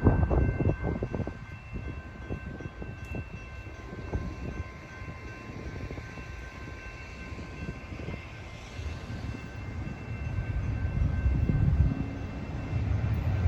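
A train passing: a low rumble with a run of clicks in the first couple of seconds, easing off through the middle and building again near the end, with faint steady high-pitched tones throughout.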